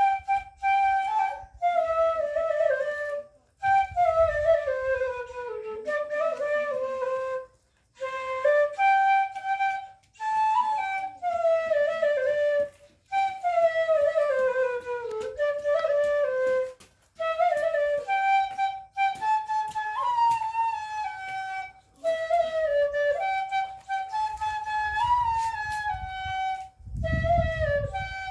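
Background music: a flute playing a melody in short phrases of stepped notes, many of them falling runs, with brief pauses between phrases.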